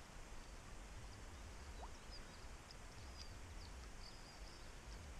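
Quiet open-air ambience with faint, scattered high bird chirps over a low steady hiss.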